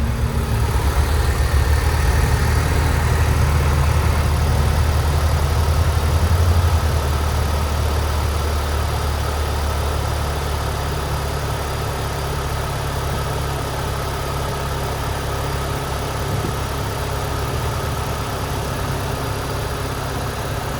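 A 2007 Saturn Sky's engine running at a cold idle after sitting unstarted for over a week. It is a little louder for the first several seconds, then settles to a slightly lower, steady idle.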